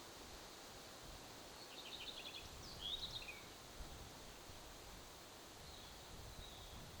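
Wind and rustling in quiet open-air ambience, with a short bird song about two seconds in: a quick run of high notes followed by a couple of slurred notes.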